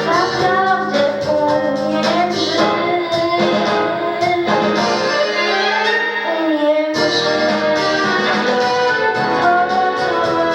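A woman singing a song solo over instrumental accompaniment, her melody held and sliding between notes; the low part of the accompaniment drops out for a moment about two thirds of the way through.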